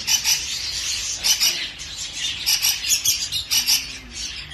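Many lovebirds and other small parrots chirping together: a continuous mass of short, overlapping high calls.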